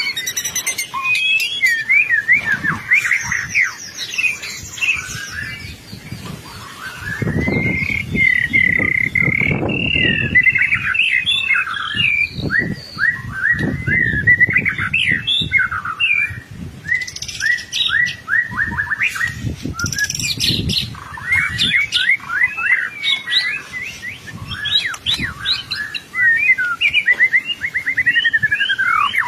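White-rumped shama singing vigorously, a long unbroken run of quick, varied chirps, whistles and trills.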